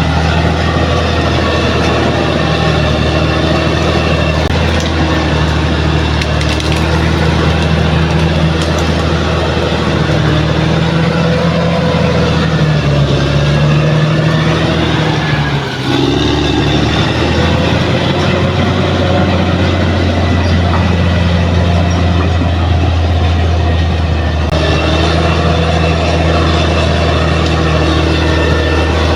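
Heavy diesel engine of a bulldozer running steadily under load, with a deep, constant hum. About halfway through, the engine note wavers and briefly dips before recovering.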